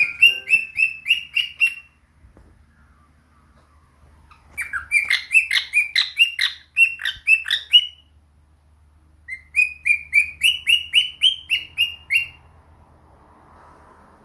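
Pet parrot calling in three bouts of rapidly repeated chirps, each bout lasting two to three seconds, with about four or five chirps a second, each chirp dropping in pitch.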